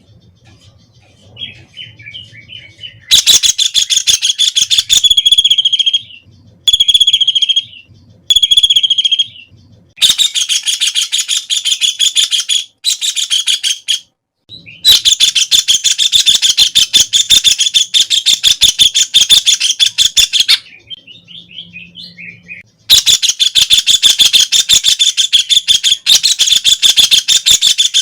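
White-throated kingfisher (Halcyon smyrnensis) calling in loud, rattling trills of rapid high notes, each bout lasting several seconds, with short pauses and a few shorter separate notes between them.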